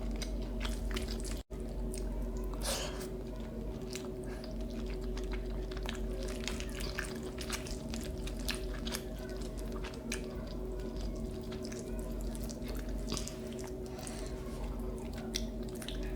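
Close-miked wet chewing of food, with many short mouth clicks and smacks. The sound cuts out briefly about one and a half seconds in.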